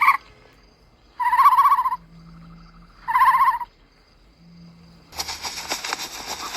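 A bird calling: a short call, then two wavering calls of well under a second each, about two seconds apart. About five seconds in, a loud rushing hiss starts and runs on to the end.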